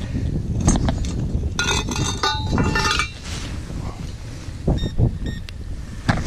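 XP Deus metal detector sounding its electronic target tones: a cluster of short, clear beeps at several pitches lasting about a second and a half, with a couple of brief beeps later. Under them runs a steady rumble of wind on the microphone.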